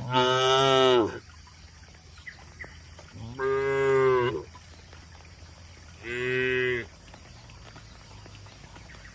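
Cow mooing three times, each call about a second long, the last one shorter.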